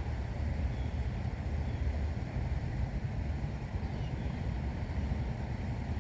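A steady, low rumbling rush of noise, heaviest in the deep bass, with no change in level.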